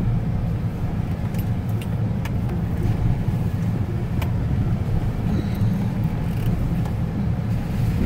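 Pickup truck driving slowly over a rough, rocky dirt road: a steady low engine and road rumble, with a few short knocks and rattles about two and four seconds in.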